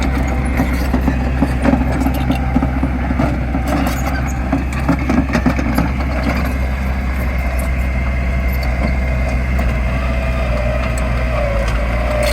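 Heavy diesel machine engine running steadily under work, with scattered clanks and knocks over it.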